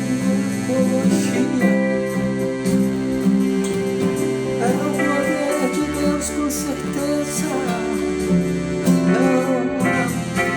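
Instrumental progressive-style gospel music: a guitar plays a melody with bending, wavering notes over a bass line, with cymbals and drums.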